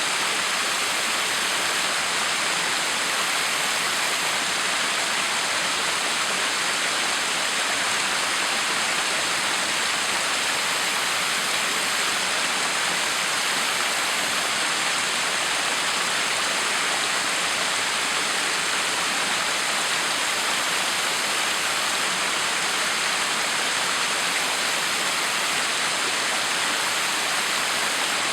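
Backyard waterfall: water pouring and splashing steadily, an even rushing hiss with no change in level.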